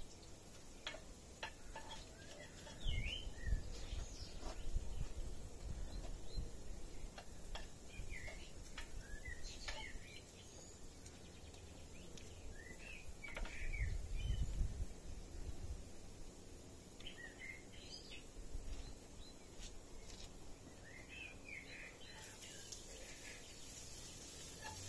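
Small birds chirping in short calls that come back again and again, with low rumbles about three and thirteen seconds in and a faint steady hiss setting in near the end.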